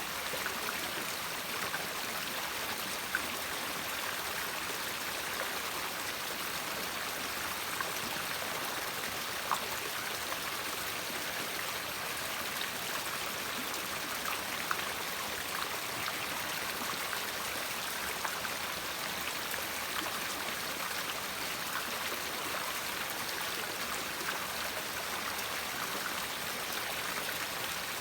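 River water flowing steadily over stones, a constant rushing with small splashes and trickles scattered through it.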